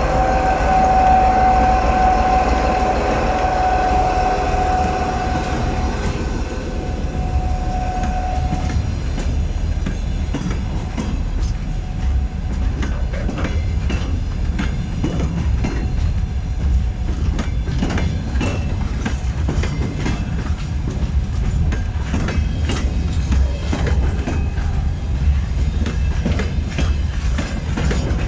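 Train passing through a station, its wheels clicking and clattering over rail joints over a steady low rumble. A steady whine is heard at first and stops about eight seconds in.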